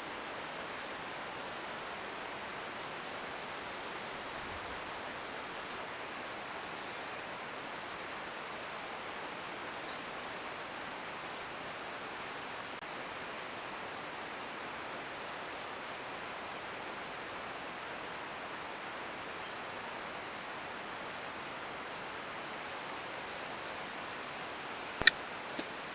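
Steady, even hiss with no changes, broken by one sharp click about a second before the end.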